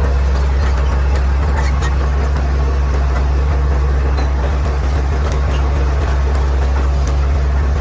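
Caterpillar D6R XL bulldozer's diesel engine running steadily with a deep, even hum.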